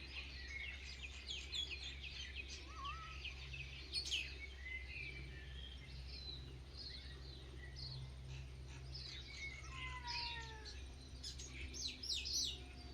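Several birds chirping and whistling, with many short calls and a few gliding whistles, over a steady low background rumble.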